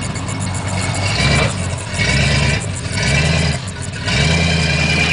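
Off-road 4x4's engine revving in short repeated surges, about one a second, then held steady near the end.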